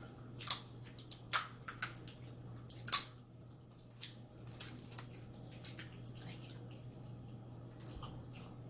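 Wet squishing and smacking of seafood boil in sauce being eaten by hand: a few short sharp smacks in the first three seconds, the loudest about three seconds in, then fainter ones.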